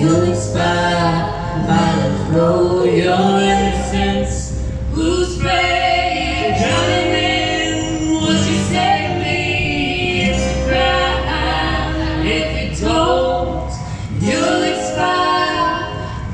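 A live band playing a song: singing over ukulele, lead guitar, bass and drums, with a held bass line and steady drum hits.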